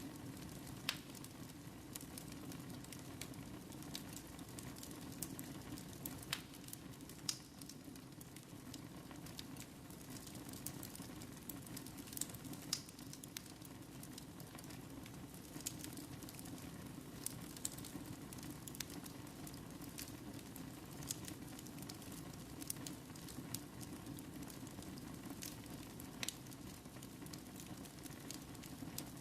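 Fire burning in a fireplace: a steady low rushing of flames with scattered, irregular sharp crackles and pops.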